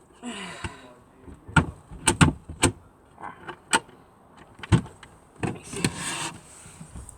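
A camper van's cupboard doors and catches being opened and handled: a brief sliding swish, then a string of sharp clicks and knocks, and a longer rustle near the end.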